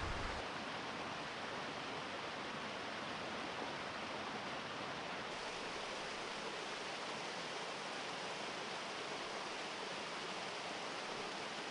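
Waterfall rushing steadily: an unbroken, even noise of falling water, loud enough to drown out speech.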